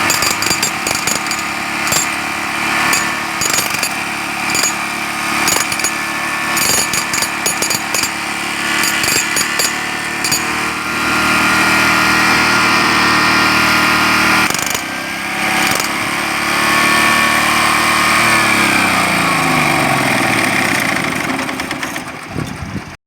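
Jackhammer hammering in rapid blows over a running engine, stopping about halfway through. The engine then runs on alone, and near the end slows and dies away with its pitch falling.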